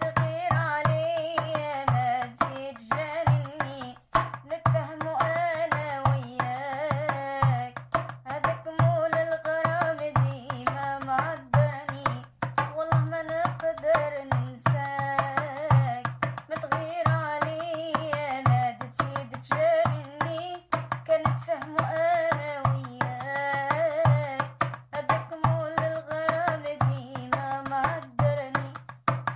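A woman singing an Arabic song over music with a steady percussion beat.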